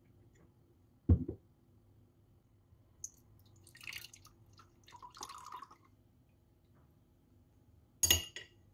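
Household objects being handled: a dull knock about a second in, light rustling and clinking in the middle, and a sharp knock with a brief ring near the end.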